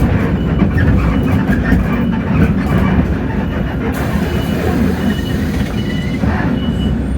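Hino RK8JRVA-KJF city bus, its 7.7-litre J08E-VN six-cylinder diesel running, heard from inside the cabin as a steady low rumble with body rattles. A faint, short high tone repeats from about halfway through.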